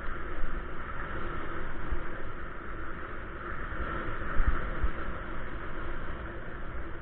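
Steady traffic and wind noise heard while riding a bike, with low gusts now and then buffeting the microphone.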